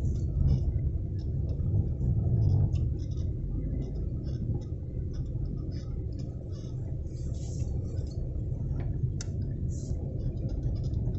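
Steady low rumble of a Chevrolet Lacetti 1.8 on the move, heard from inside the cabin, with faint scattered ticks over it.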